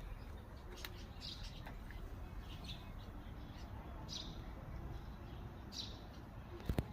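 Wild bird giving short, high chirping calls, repeated about every second and a half. A sharp click comes near the end.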